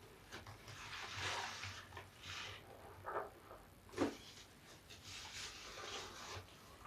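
Large soapy bath sponge being squeezed and kneaded with soap slivers: wet squishing in several short bursts, with a sharper squelch about four seconds in.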